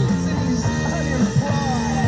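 Music with singing from an FM radio station, received by the Yamaha CR-2020's tuner and played over a pair of small speakers in the room.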